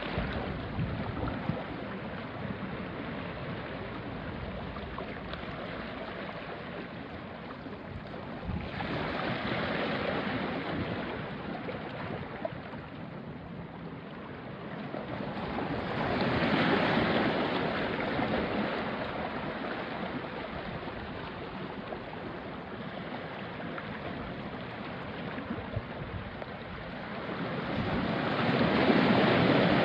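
Small sea waves washing onto a rocky shore: a steady wash, with a louder surge of water over the rocks three times, about 9, 16 and 28 seconds in.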